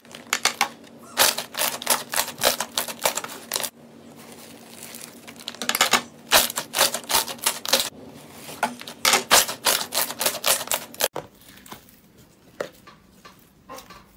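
Crunchy slime being pressed and squeezed, crackling in fast runs of sharp pops with short pauses between. About eleven seconds in it cuts off abruptly, leaving only a few faint clicks.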